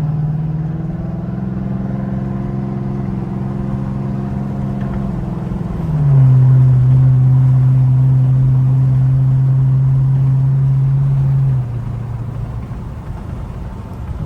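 Straight-piped Chrysler 300 Hemi V8 exhaust droning steadily under acceleration in a quick pull, heard from inside the car. About six seconds in the pitch steps down and the drone gets louder, as with an upshift. Near the end the drone drops away suddenly as the throttle is released, leaving road noise.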